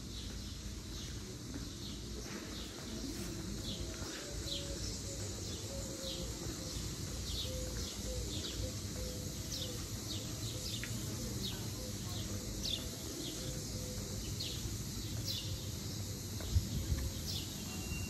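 Small birds chirping in the trees: many short, high, falling chirps repeating over a low outdoor rumble, with a thump near the end.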